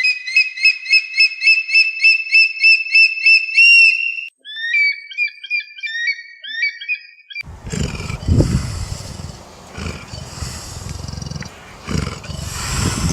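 A bird singing a fast run of clear, evenly spaced whistled notes, about four a second, followed by a different bird's shorter chirps. About seven seconds in, a rough, pulsing big-cat roar takes over.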